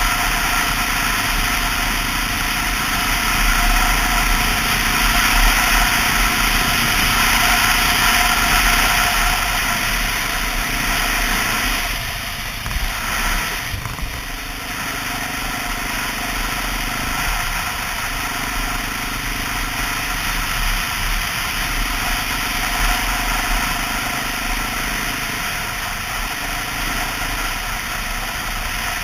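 Honda XR650L's single-cylinder four-stroke engine running under way, with steady wind noise over it. The level dips briefly about halfway through, then holds steady again.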